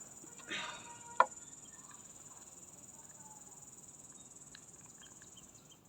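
Crickets trilling, a steady high trill that stops just before the end. A brief rustle comes about half a second in, and a single sharp click about a second in.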